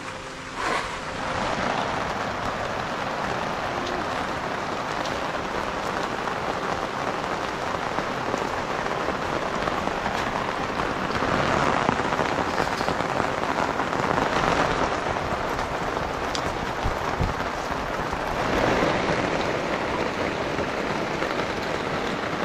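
Rain falling steadily, a dense even patter that swells a little now and then.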